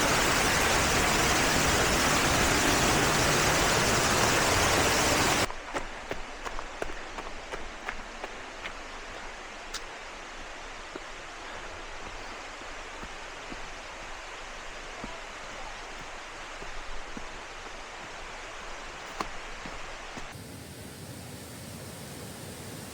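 Waterfall rushing, a loud, even, close-up roar of falling water. After about five seconds it cuts abruptly to a quieter, more distant rush of water with a few faint ticks.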